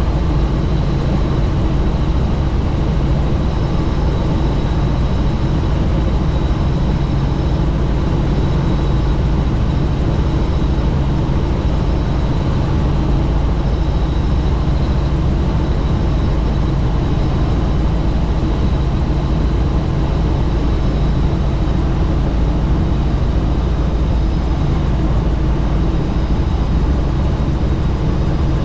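Helicopter in flight: steady loud rotor and engine noise, with a thin high whine above it.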